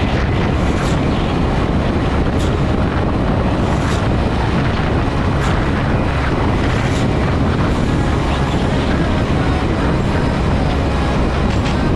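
Steady rush of a motorcycle being ridden, with engine and road noise and wind buffeting the microphone.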